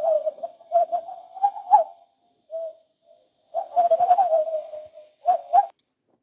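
Owl calling: two bouts of wavering, trilling hoots of about two seconds each, with a short single note between them.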